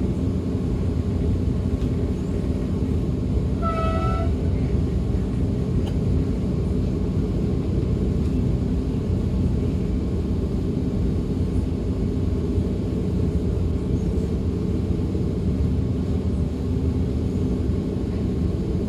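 DB Class 425 electric multiple unit running along the line, a steady rumble of wheels on rails heard from inside the coach. A brief high tone sounds once about four seconds in.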